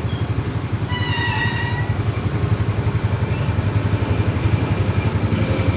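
Yamaha Mio scooter's single-cylinder four-stroke engine idling steadily with a fast, even beat, warm after a rebuild for low compression and misfiring.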